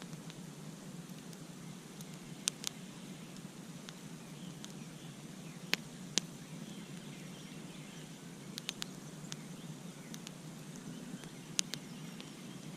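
Campfire crackling: scattered sharp pops and snaps every second or two, some in quick pairs, over a steady low rush of burning wood.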